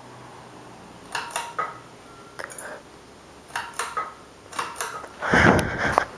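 A ceiling fan's pull-chain speed switch being worked: a handful of light metallic clicks and chain rattles spread over several seconds as it is pulled to medium speed, with a louder rustle near the end.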